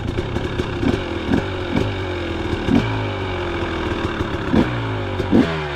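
KTM 300 XC's two-stroke single engine revving in quick, repeated throttle blips, with one longer rise and fall about halfway through.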